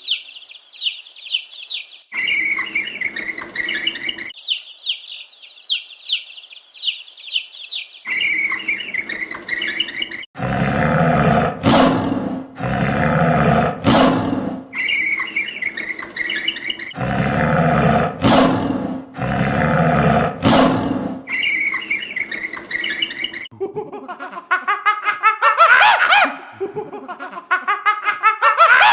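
A string of different animal calls, bird chirping among them: quick high chirps at first, then several loud calls repeated in the middle, and rising, squealing calls near the end.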